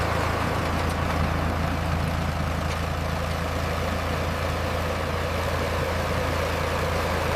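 Steady diesel-style engine running at a low idle-like pace, the engine sound of a radio-controlled construction truck or heavy machine.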